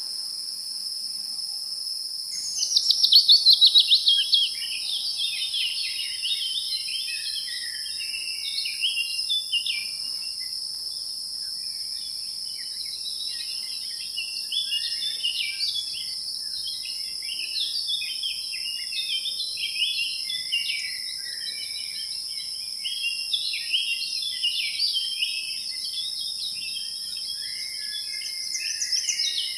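Steady high-pitched insect drone with many small birds chirping and calling throughout. A loud run of rapid, falling trilled notes comes about two to four seconds in.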